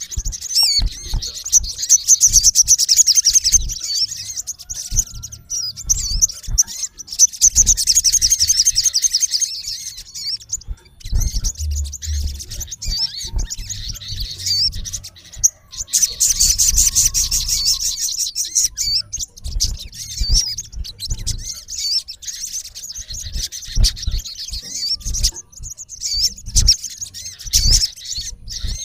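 Male olive-backed sunbird calling: runs of very fast, high-pitched twittering trills lasting a few seconds each, with sharp chirps in between. Scattered low thumps lie underneath.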